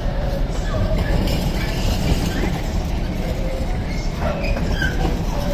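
A train running past on the line: a steady rumble of wheels on the rails with faint, thin wheel squeals.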